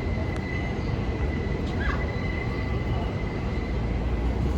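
Subway train running on elevated track: a steady low rumble with a thin, steady high whine over it.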